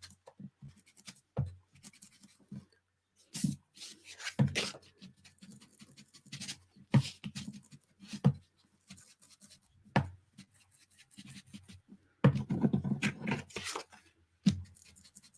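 Ink pad being dabbed and rubbed along the edges of a piece of paper: irregular soft taps and scuffs, with a longer stretch of rubbing about twelve seconds in.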